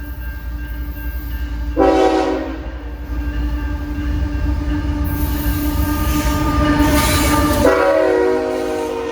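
Diesel freight locomotive passing with a steady engine and wheel rumble, its multi-note air horn sounding about two seconds in and again near the end.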